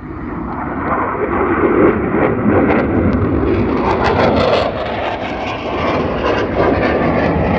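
Fixed-wing aircraft flying past, a loud engine roar that builds over the first couple of seconds and stays loud.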